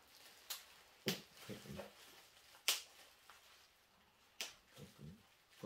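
Four sharp clicks or taps, spaced irregularly, with a short spoken reply between them.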